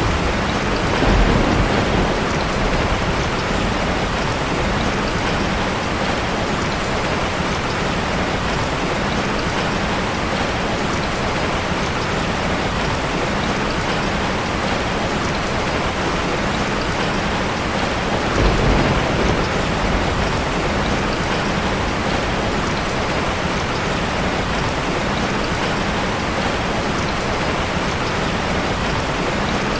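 Heavy rain falling steadily in a dense, even hiss, with brief low swells about a second in and again about two-thirds of the way through.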